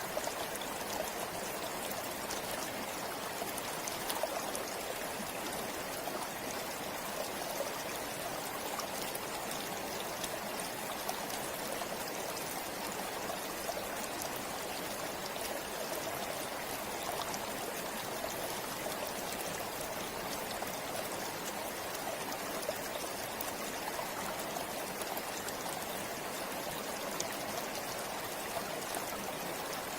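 A river running steadily over stones, with a constant rushing and fine splashes and trickles throughout.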